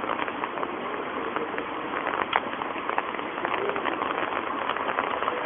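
Steady rain falling, an even hiss dotted with many sharp drop taps.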